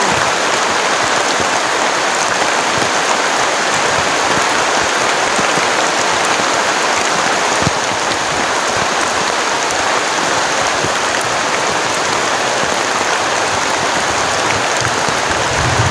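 Heavy rain falling steadily in a forest, a dense, unbroken downpour.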